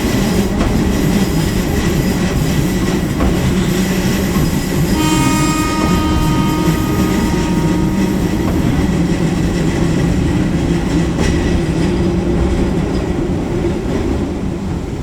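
Eizan Electric Railway electric train running along the track: a steady rumble of wheels on rails with clickety-clack. A high, stacked tone sounds for about two seconds around five seconds in.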